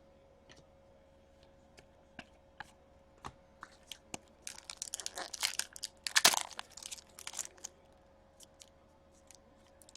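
Hockey trading cards and their packaging being handled at close range: scattered light clicks, then a stretch of crinkling and tearing around the middle, then a few more clicks.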